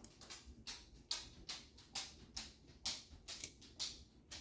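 Faint, light clicks and taps, irregular, about two to three a second.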